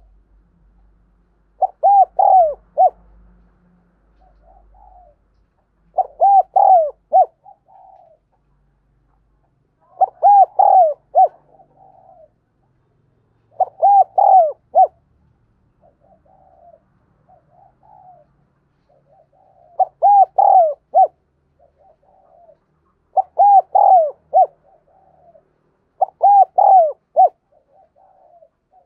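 Spotted dove cooing: a phrase of three or four arched coos repeated about every four seconds, with fainter, softer calls in the gaps between phrases.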